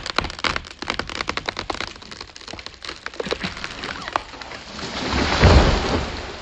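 A big axe-felled maple tree coming down: rapid crackling and snapping of wood, then a heavy crash as the tree hits the ground about five seconds in, the loudest sound.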